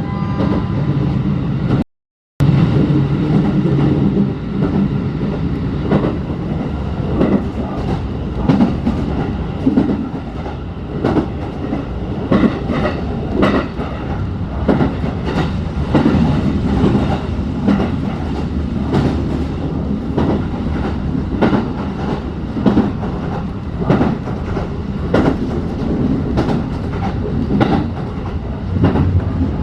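Ride sound inside a locomotive-hauled passenger coach: a steady rumble with the wheels clicking and knocking irregularly over rail joints. The sound cuts out briefly about two seconds in.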